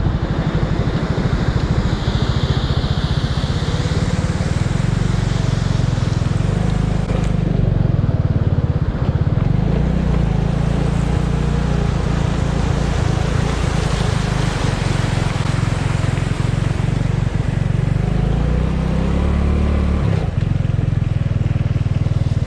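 Motorcycle engine running steadily while riding, heard as a continuous low rumble.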